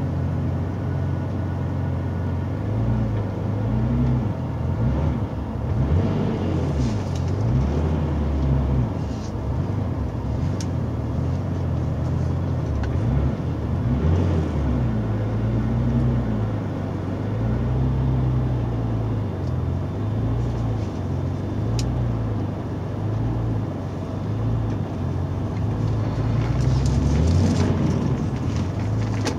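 Porsche 993 Turbo S's air-cooled twin-turbo flat-six heard from inside the cabin, running at low revs as the car creeps along. Its note rises and falls gently with small throttle changes, a little louder near the end.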